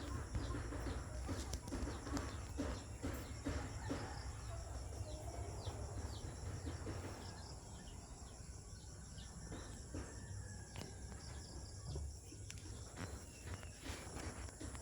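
Outdoor rural ambience: a steady high-pitched insect chorus of crickets or cicadas, with many short, quick bird chirps over it and a low rumble underneath.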